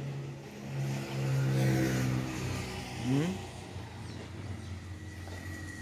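John Deere 5050D tractor's three-cylinder diesel engine running, with a quick rev about three seconds in before it settles back to a steady idle.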